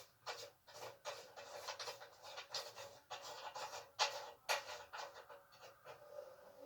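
Scratching and clicking of metal parts as a washer and nut are fitted and tightened on a gas stove's burner assembly, with two sharper clicks about four seconds in.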